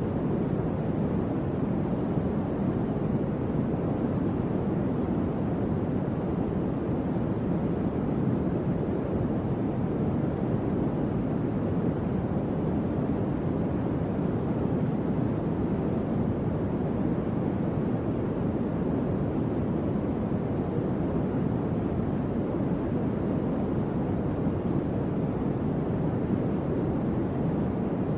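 Electric fan running steadily, giving an even, low whoosh of moving air.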